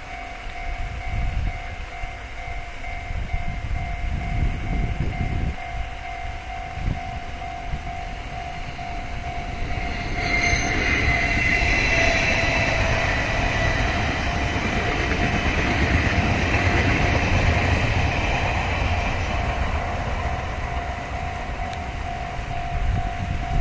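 Electric locomotive-hauled passenger train running past on the line: a broad rush of train noise swells about ten seconds in and eases off over the last few seconds as the train draws away. Under it, a steady hum runs throughout, from the paddlewheel aerators turning in the pond, with a low rumble of wind.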